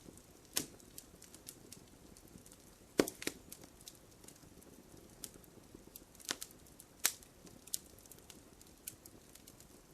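Wood fire crackling: irregular sharp pops and snaps over a soft low rustle of burning. The loudest pops come about three seconds in and about seven seconds in.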